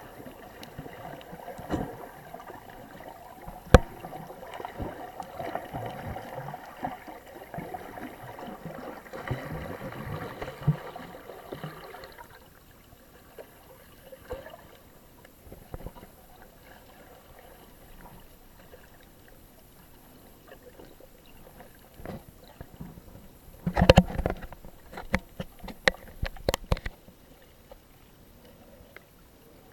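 Muffled water sloshing and gurgling heard through a snorkeler's camera in the water, busier in the first half and then quieter, with a cluster of sharp knocks near the end.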